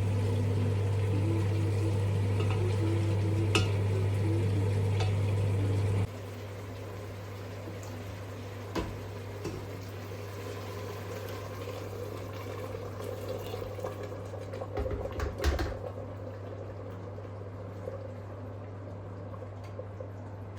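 Kitchen cooking sounds: a steady low hum that drops in level about six seconds in, with occasional light clinks and knocks of pots and utensils.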